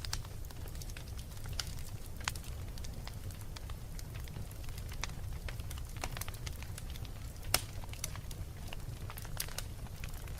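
Wood fire burning in a fireplace: a steady low rumble of flames with irregular sharp crackles and pops, two louder pops about two seconds in and near eight seconds.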